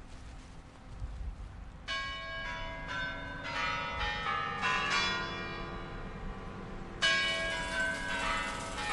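Kremlin Spasskaya Tower clock chimes ringing: a run of bell notes struck in quick succession starting about two seconds in, each ringing on, and a second loud run starting about seven seconds in.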